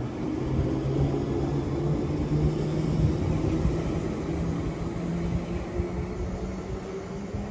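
London Underground 1972 stock train pulling away, its wheels rumbling on the rails and its traction motors humming, the hum slowly rising in pitch as the train gathers speed.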